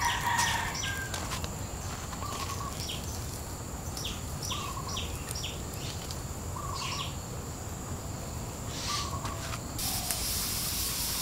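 A bird calling outdoors: a short, level note repeated about every two seconds, with light clicks in between and a steady low background noise.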